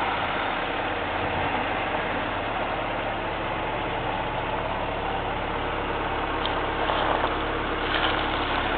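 Toyota Tercel's four-cylinder engine idling steadily.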